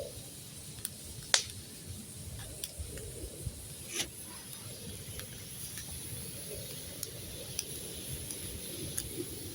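Wood campfire crackling, with scattered sharp pops over a faint steady hiss; the loudest pops come about a second and a half in and at about four seconds.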